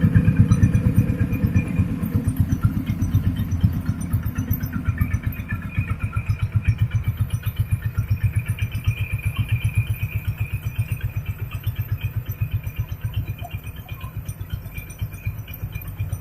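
Hand tractor's single-cylinder diesel engine running with a rapid, even beat, growing gradually fainter.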